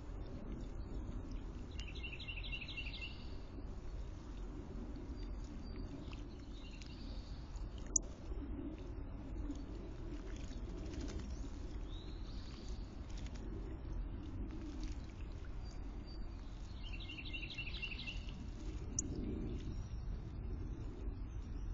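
Wild birds singing: a short phrase of rapid repeated chirps about two seconds in and another near the end, with faint scattered whistles over a steady low outdoor background and a single sharp click in between.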